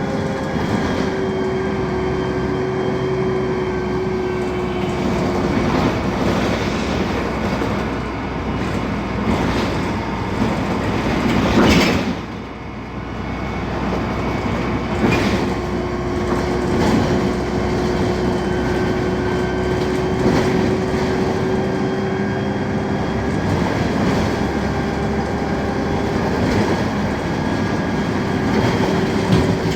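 BredaMenarinibus M 240 LU city bus running under way, its Mercedes-Benz OM 906 LA six-cylinder turbodiesel and Voith automatic gearbox giving a steady whine over continuous rattling. A sharp loud clatter comes about twelve seconds in, after which the sound drops for a moment before picking up again.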